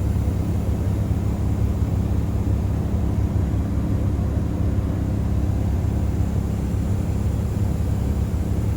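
Tour bus riding along at steady speed, its engine and road noise heard inside the cabin as an even low rumble.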